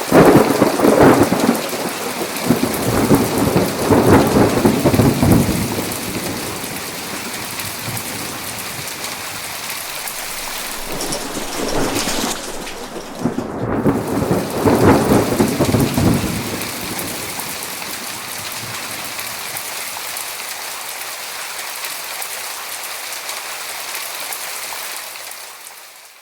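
Thunderstorm: steady heavy rain with rolling thunder rumbling loudly over it at the start and twice more in the middle, then the rain fading out near the end.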